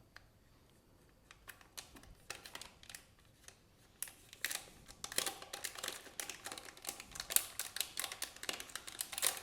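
Packaging being handled and opened: quick irregular clicks and crinkling of plastic and card, sparse at first and getting busier about four seconds in.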